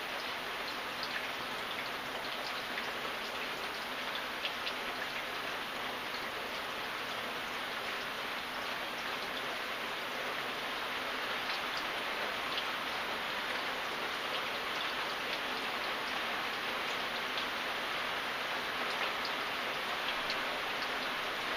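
Steady rain, with the patter of individual drops landing close by heard over a continuous hiss.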